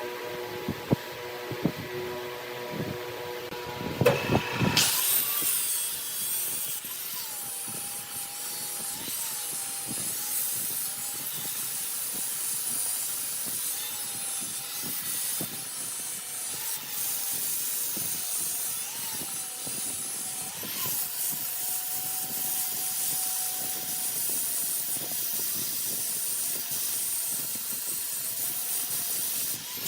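Wood lathe running while a turning tool cuts the spinning wood: a steady hissing scrape, with the lathe's motor tone wavering underneath. The first few seconds are different, a hum with a few sharp knocks, before the cutting starts.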